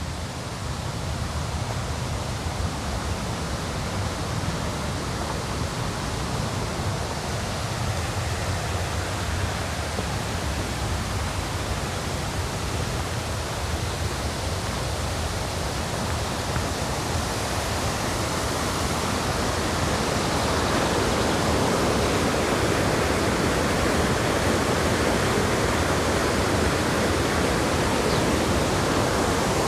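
River rapids rushing, a dense, even roar of white water that gets louder about two-thirds of the way through and then holds steady.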